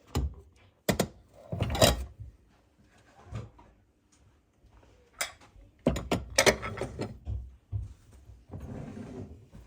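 Household handling noise: a series of sharp knocks and thunks in clusters, about a second in, near two seconds and again between five and seven seconds, with a softer rustle near the end.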